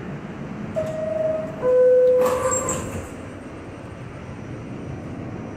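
R68 subway car's two-note descending door chime, followed by the doors sliding shut with a loud bang, then the stopped car's steady rumble.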